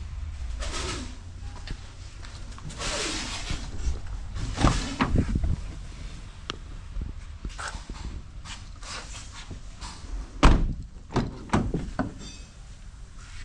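Irregular knocks and thuds from handling a stripped vehicle's body and interior, with one loud slam about three quarters of the way through.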